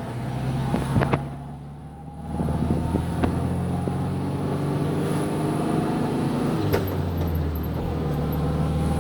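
1970 VW Beetle's air-cooled flat-four engine pulling away from a stop. About a second in it drops off with a click as the Autostick semi-automatic shifts up, then pulls steadily again, with another click and shift near the end.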